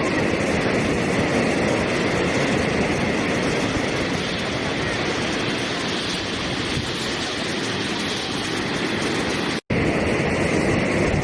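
Steady rushing water, an even unbroken noise, cut to silence for a split second about nine and a half seconds in.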